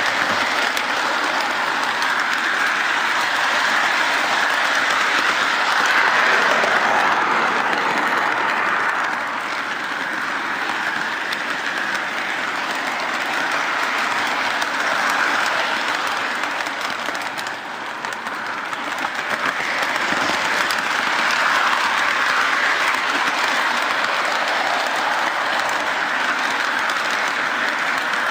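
O gauge model train running along its track, its wheels rattling on the rails just under the microphone as a steady, even clatter. It dips briefly about two-thirds of the way through.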